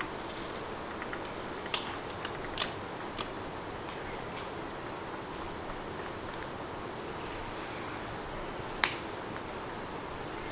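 Steady rain with small birds chirping in short, high calls on and off, and a few sharp clicks, the loudest one near the end.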